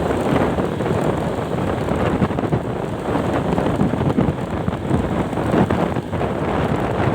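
Steady wind rushing over the microphone of a moving vehicle, mixed with road noise.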